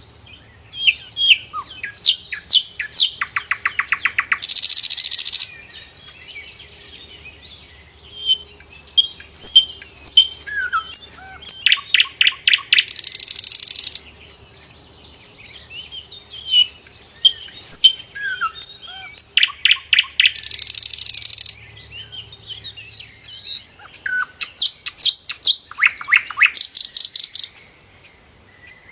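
Sikatan londo flycatcher singing: four near-identical bouts of sharp chirps and slurred whistles, each ending in rapid trills and a high buzzy rattle, with short pauses between bouts.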